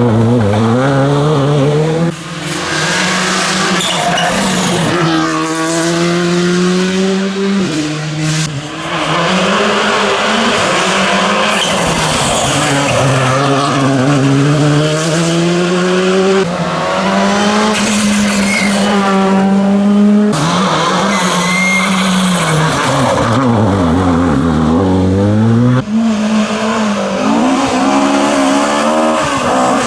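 Rally car engines revving hard through the gears: the pitch climbs and then drops sharply at each gear change, again and again. Near the end the pitch falls low and then climbs again.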